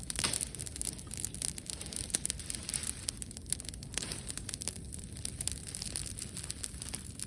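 Wood bonfire crackling, with many short, irregular snaps and pops.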